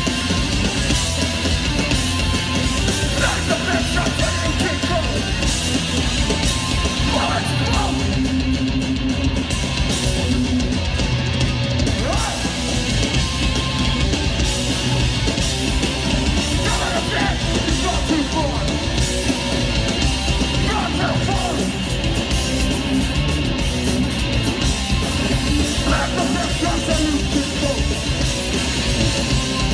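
Live hardcore punk band playing loud, with distorted electric guitar, drums and yelled vocals.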